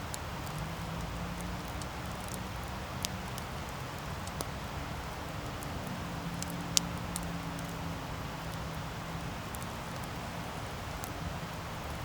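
Wood campfire burning with a steady hiss and scattered sharp crackles and pops, the loudest snap about two thirds of the way through. A faint low hum runs underneath.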